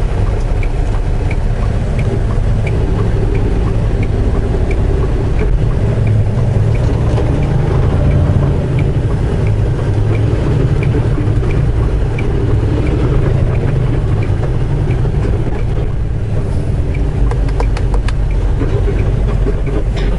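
Semi truck cab on the move: steady diesel engine drone and road rumble, with a faint regular tick about one and a half times a second.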